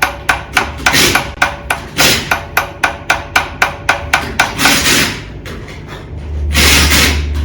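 Hammer strikes in a fast, even series, about three to four a second, with a slight metallic ring, as a new pilot bearing is tapped into the end of a Toyota 4A-GE crankshaft; they stop about five seconds in. Near the end comes a louder rushing noise with a low hum.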